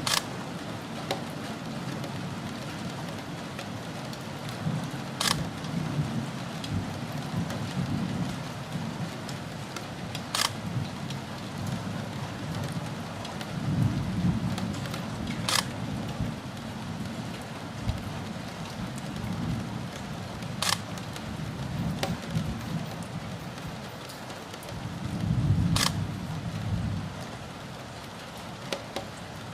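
Steady rain during a thunderstorm, with low rolls of thunder rumbling through several times, loudest about 14 and 25 seconds in. A sharp click repeats about every five seconds.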